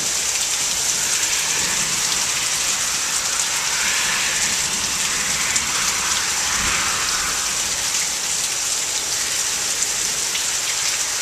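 Heavy monsoon rain pouring steadily, a dense even hiss of rain on the ground and surfaces. About two-thirds of the way through there is a brief low rumble.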